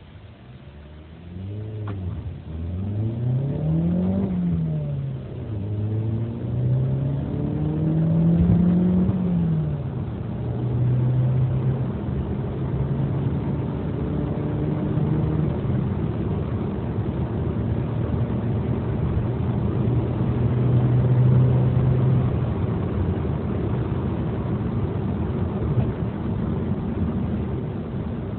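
2008 Chevrolet Cobalt SS turbocharged four-cylinder engine accelerating hard from a standstill. The engine note climbs, drops at a gear change about four seconds in, climbs again and drops at another shift around ten seconds in, then runs at a fairly steady pitch before easing off near the end.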